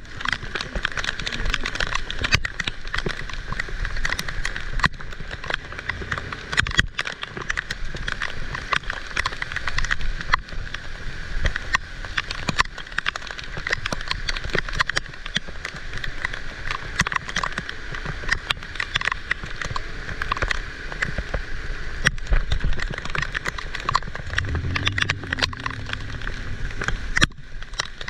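Heavy rain pouring down: a dense, steady patter of countless drops. A brief low hum comes in near the end.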